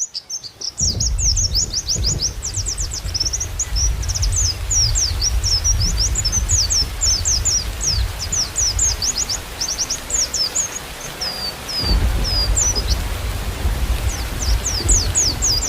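White-eye (pleci) song: a fast, unbroken run of high, thin chirps and trills that pauses briefly near the end and then resumes. Under it is a steady low rumble of rain.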